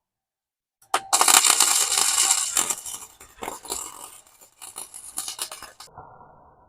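Welding arc crackling in one burst of about five seconds, starting suddenly about a second in and fading toward the end.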